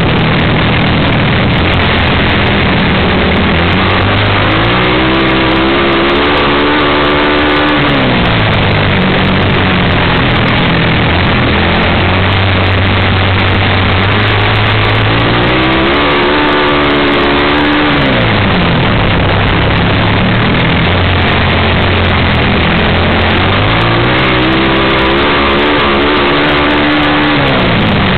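Vintage flat-track racing motorcycle engine, heard from an onboard camera while lapping. Three times its pitch winds up along a straight, then drops sharply as the throttle is shut for the turn, over a steady rush of wind noise.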